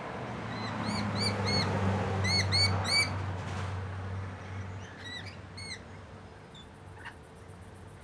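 Small birds chirping: short, clear, arched notes in quick runs of two or three, bunched in the first three seconds and again about five seconds in. Under them a low steady hum fades out about five seconds in.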